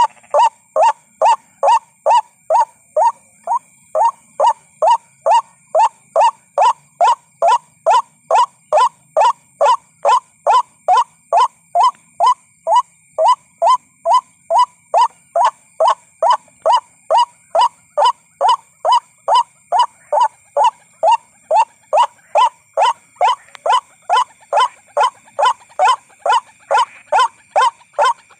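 White-breasted waterhen calling, a monotonous note repeated at an even pace a little more than twice a second without a break. This is a lure call for drawing waterhens in to a trap.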